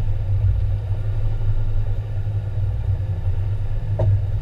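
Fire engine's engine running, a steady low rumble, with a brief knock about four seconds in.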